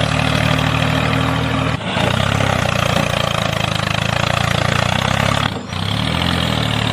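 Tractor engine running steadily, its sound dipping briefly twice: about two seconds in and again past five seconds.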